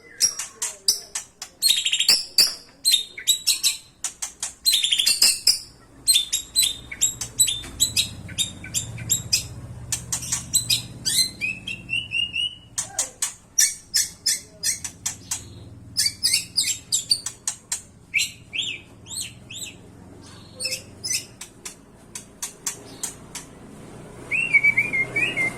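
White-rumped shama (murai batu) singing: a long, busy run of rapid sharp chips and clicking notes mixed with clear whistles, broken now and then by short gliding whistled phrases.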